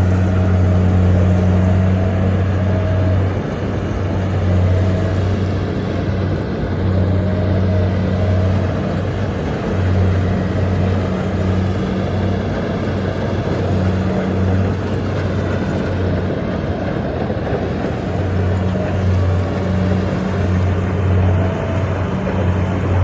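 Kubota combine harvester's diesel engine running steadily while it harvests rice in a muddy paddy: a constant, loud low hum with the clatter of the machine's works over it.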